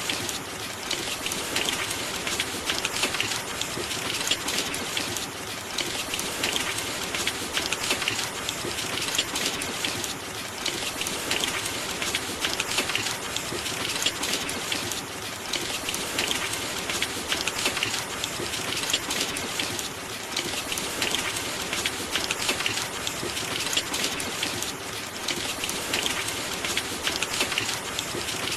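Steady rain falling, a dense patter of drops that swells and eases slightly every few seconds.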